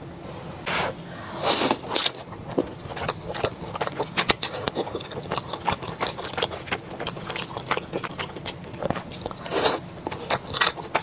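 A person eating close to the microphone: bites and chewing with many small crunchy clicks, and a few louder bursts about a second and a half in and again near the end.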